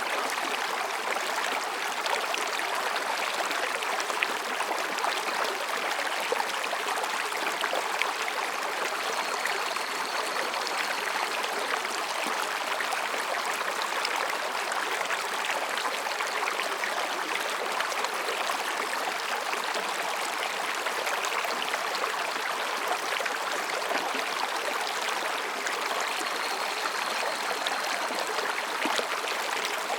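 Mountain stream babbling and splashing over rocks in a steady, continuous rush. A faint high call sounds briefly twice in the background.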